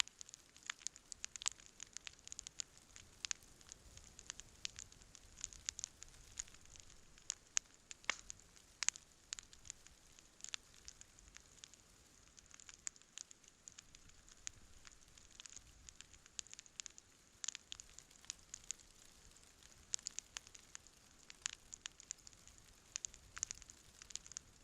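Wood campfire burning, with irregular sharp crackles and pops over a faint steady hiss.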